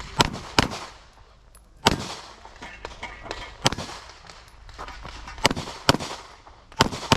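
Handgun shots fired during a timed course of fire, about eight sharp reports at irregular spacing: a pair half a second apart at the start, then single shots a second or two apart, and another close pair near the end.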